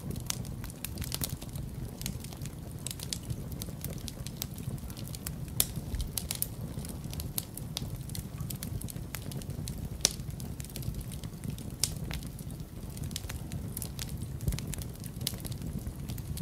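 Wood fire crackling in a fireplace: irregular sharp pops and snaps, a couple louder than the rest, over a steady low rumble.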